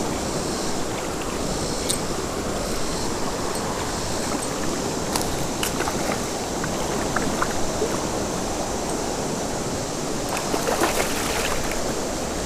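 Fast creek current rushing steadily, with a few faint clicks over it.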